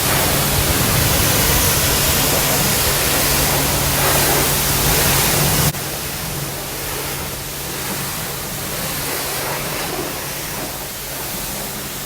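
High-pressure spray from a self-service car wash wand, a loud steady hiss of water with a low pump hum under it. It drops abruptly in loudness a little over five seconds in and then runs on steadily.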